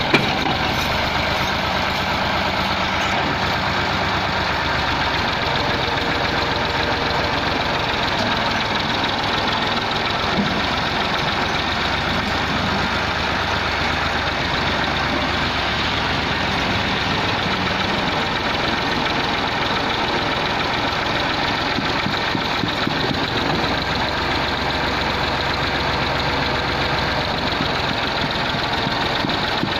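Massey Ferguson 260 tractor's diesel engine running steadily while pulling a plough, with one sharp tick right at the start.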